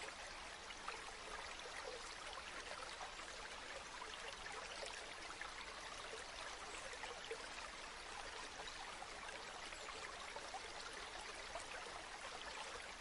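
Flowing river water: a steady, faint babble full of small splashes and trickles.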